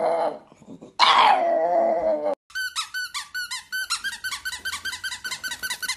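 A pug howling: a long cry that ends just after the start, then a loud second cry that falls in pitch. From about two and a half seconds on, a squeaky toy squeaks rapidly and high, about four or five squeaks a second.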